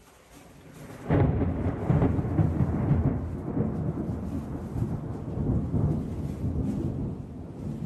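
A thunderclap breaks suddenly about a second in and rolls on as a deep rumble that slowly eases off.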